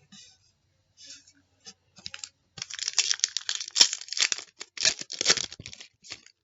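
Foil wrapper of a trading card pack being torn open and crinkled, a dense crackly rustle that builds a couple of seconds in and stops just before the end.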